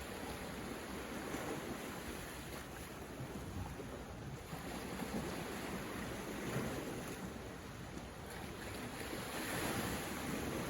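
Sea waves breaking and washing on the shore, a continuous rushing that swells and eases, building louder near the end.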